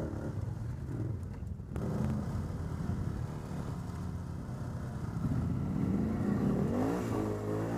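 ATV engine running under throttle, easing off briefly about a second and a half in, then revving up with a rising pitch near the end.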